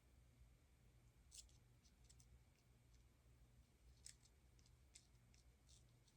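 Near silence with a faint low steady hum and a scattering of small, faint clicks from small objects being handled, the clearest about a second and a half in and about four seconds in.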